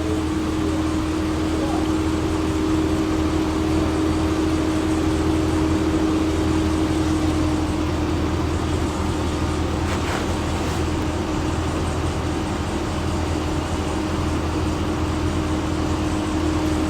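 2013 Chevrolet Caprice engine idling steadily with a misfire. Cylinder 4 is dead, which the mechanic puts down to a damaged camshaft lobe and lifter at that cylinder.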